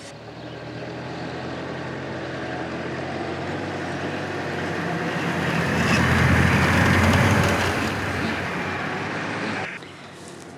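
Tractor engine running and coming closer, growing louder until about six to seven seconds in, then easing off and cutting out abruptly near the end.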